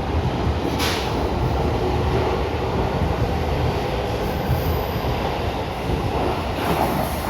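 Running noise inside a JR West 223 series 2000-subseries electric train: a steady rumble of wheels on rail and the running gear, with a brief sharp noise about a second in.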